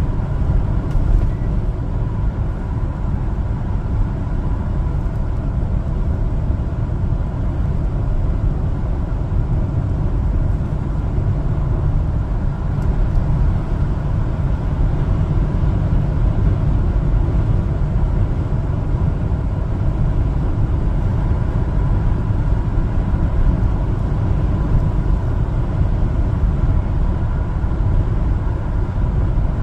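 Steady engine and road noise from a 1-ton LPG cargo truck driving along, with a faint steady high tone running under it.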